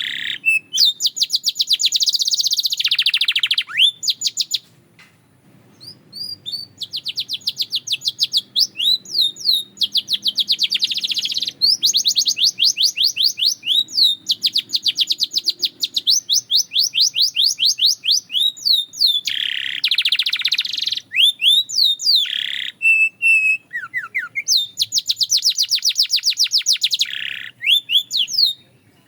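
Canary singing a song of rapid trills: runs of fast repeated high notes, each run lasting a second or two. The song pauses for about two seconds about four seconds in, then carries on.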